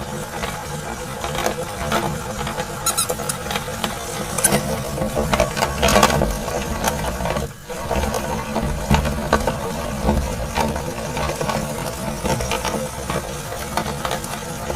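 Electric meat grinder running under load, its motor humming steadily while it crushes a plastic mouse with many sharp cracking clicks. The sound briefly drops out about seven and a half seconds in.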